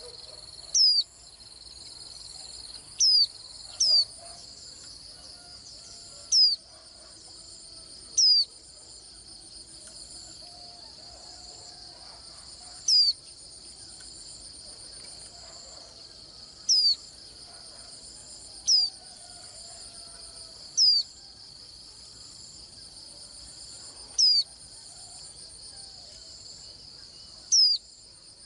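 Japanese white-eye giving single short, sharp high calls, eleven of them at irregular gaps of one to four seconds, over a steady high insect trill.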